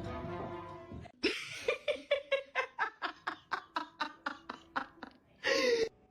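A person laughing in a long string of quick, evenly spaced "ha" pulses, about five a second, followed near the end by one louder, longer vocal sound.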